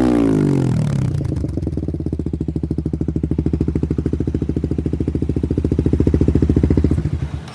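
Suzuki Satria FU Fi motorcycle's 150 cc single-cylinder engine through a CLD trioval aftermarket exhaust: the revs fall back from a blip to idle, then it idles with an even pulsing beat and stops about seven seconds in.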